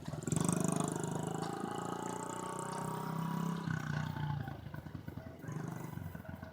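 Dirt bike engine running, its pitch rising slowly over the first three seconds, then dropping and growing fainter after about four seconds.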